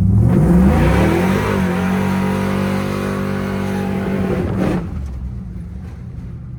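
Cammed 5.3 V8 in a Chevy Tahoe with long-tube headers and a Corsa muffler accelerating: the engine note climbs for about a second and a half, holds steady, then drops off sharply a little before five seconds in.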